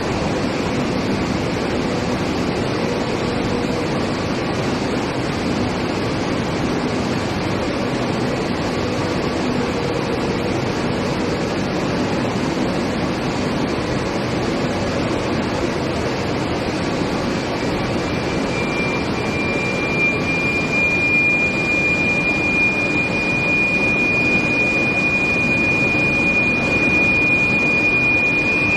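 Steady industrial machinery noise from a steel plate induction heating line, with faint low hums. About two-thirds through, a single high steady whine comes in and grows loud, typical of an induction coil working at its operating frequency.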